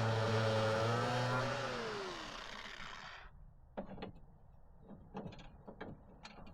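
Metabo 6-inch angle grinder running steadily, then let off and spinning down, its whine falling in pitch and fading out about three seconds in. A few light clicks and knocks follow.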